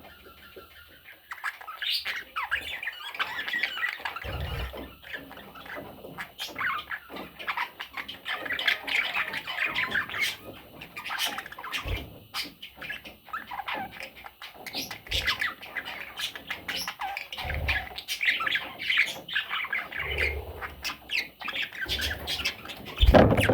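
Budgerigar chattering and warbling continuously, a fast run of chirps and squawks.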